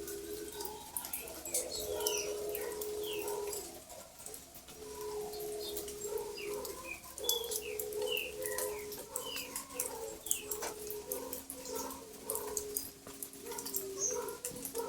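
Several birds calling together: low notes, each held for about a second and repeated, under many short, high, falling chirps.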